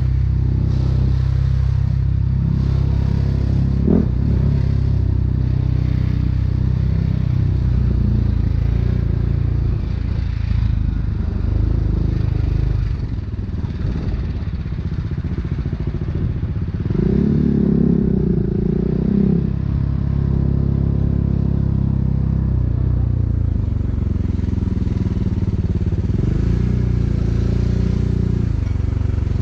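BMW G 310 R's single-cylinder engine running through an Akrapovic racing exhaust, rising and falling in pitch with the throttle in traffic, with a louder stretch just past the middle.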